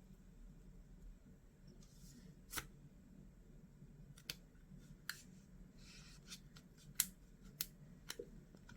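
Scattered light clicks and taps, about six spread unevenly over several seconds, with a couple of faint brief rustles between them over a low steady hum.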